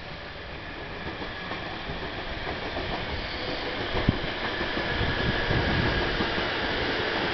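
Electric train approaching on the rails, its running noise and wheel-on-rail rumble growing steadily louder, with a single sharp knock about four seconds in.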